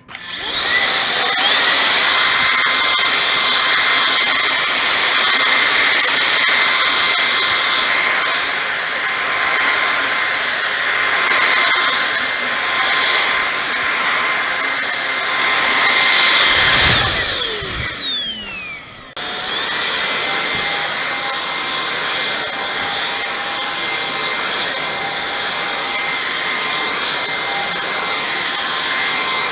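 Holife cordless stick vacuum's brushless motor spinning up to a steady high whine. About two-thirds of the way in it is switched off and winds down in a falling whine, with a brief low bump as it stops. After a short pause it starts again.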